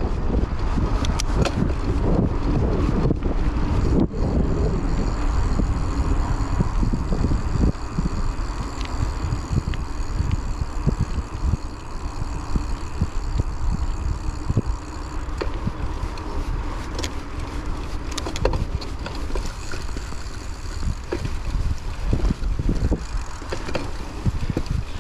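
Wind buffeting a chest-mounted GoPro's microphone while riding a Raleigh Trailblazer hardtail mountain bike over an off-road trail, with a steady low rumble of tyres and many scattered knocks and rattles from the bike over bumps.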